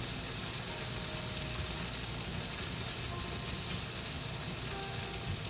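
Onions and garlic sizzling steadily as they fry in a pan.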